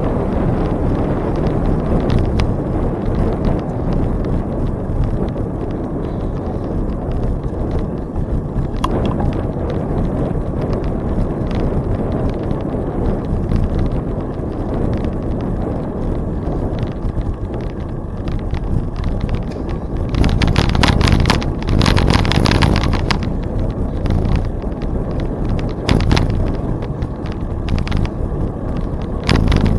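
Wind rushing over the microphone of a camera on a moving bicycle, a steady low rumble. It grows louder for a few seconds about twenty seconds in, with scattered clicks throughout.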